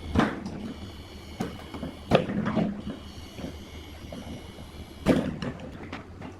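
A few separate knocks and clunks, as of parts and tools being handled, over a steady low hum.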